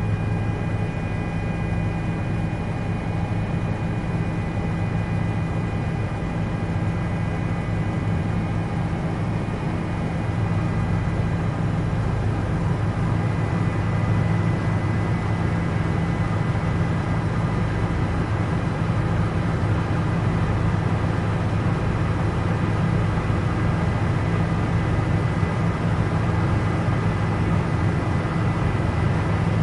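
Helicopter in flight: a steady drone of engine and rotor with a thin, unchanging high whine.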